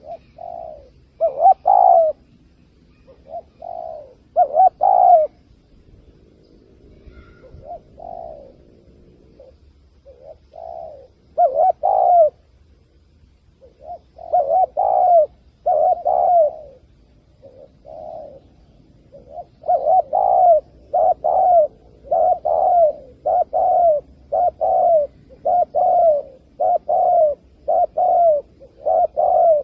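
Spotted dove cooing, the call used to lure wild males. It gives short, repeated coo phrases, spaced irregularly at first, then a quick even run of about one a second near the end.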